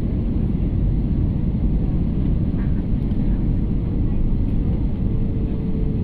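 Steady low rumble of engine and airflow noise inside an airliner's passenger cabin. A faint steady tone comes in near the end.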